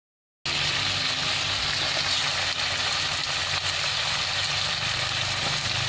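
Sambal, lemongrass, salam leaf and whole chilies sizzling in hot oil in a stainless-steel wok. A steady sizzle that starts abruptly about half a second in.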